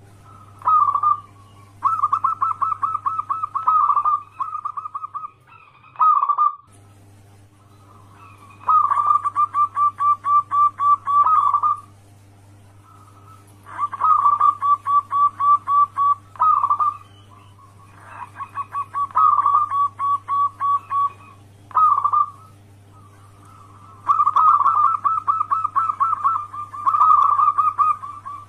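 Zebra doves (perkutut) cooing, in about ten phrases of rapid staccato notes, some short and some running for two to three seconds. A steady low hum runs underneath and drops out briefly about six seconds in.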